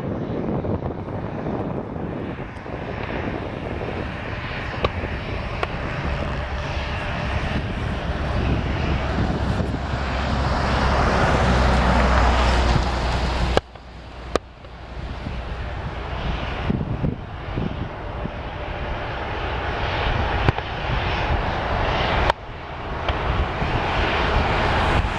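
Aircraft engine noise at an airport, a rumbling roar that swells to its loudest just before halfway, then breaks off abruptly and builds again, with another sudden break near the end.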